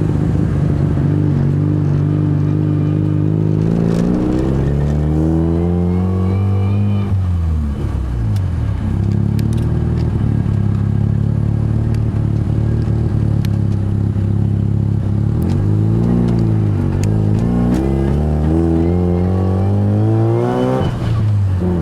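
BMW 335i's turbocharged straight-six engine accelerating through the gears. The pitch climbs for several seconds, drops at a gear change about seven seconds in, climbs again, dips again around sixteen seconds, and drops once more near the end.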